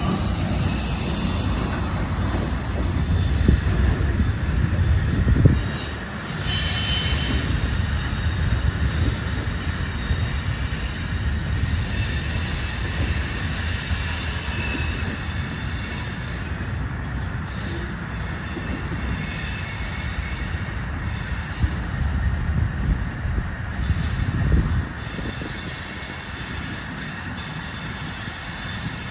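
CSX freight train cars rolling past with a steady low rumble on the rails and a thin, high wheel squeal.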